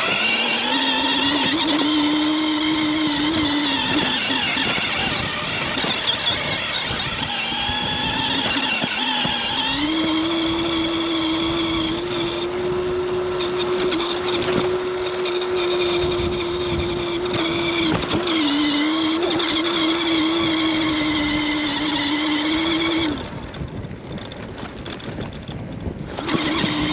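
Stacyc electric balance bike's motor whining at a steady high pitch, the pitch dipping and climbing back twice, then cutting off about 23 seconds in.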